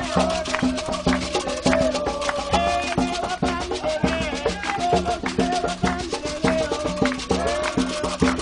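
Candomblé ritual music: fast, dense drumming and rattles with voices singing over it.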